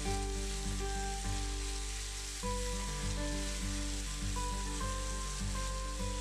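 Chicken pieces and sliced onions sizzling in a frying pan as a thick blended paste is poured over them, under background music with a steady beat.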